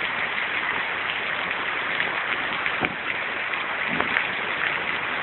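Heavy rain pouring down, a steady hiss with a couple of sharper taps about three and four seconds in.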